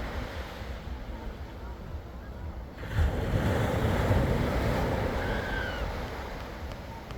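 North Sea waves breaking on the shore. A wave surges in sharply about three seconds in, then slowly draws back.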